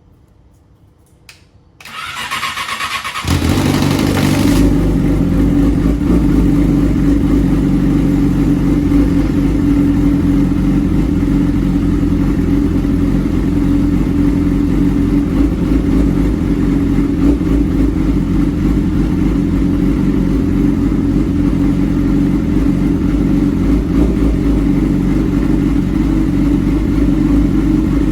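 Yamaha R6 inline-four with an SC-Project exhaust starting: the starter cranks about two seconds in, the engine catches a second or so later, then it idles steadily and loudly.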